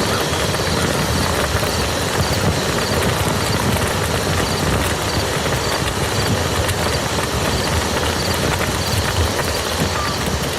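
Steady rain falling on a muddy field: an even hiss with many small drop taps.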